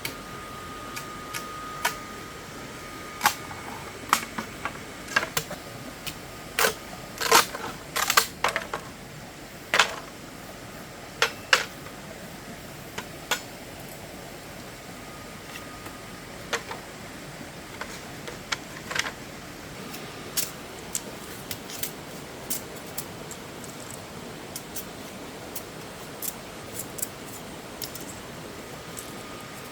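Irregular sharp clicks and knocks over a steady hiss, coming thick and fast in the first third and more scattered later.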